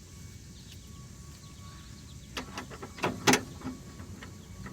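A few short, irregular metal clinks and knocks from hand tools on the steering linkage under the car, starting a little past halfway through, the loudest near the end.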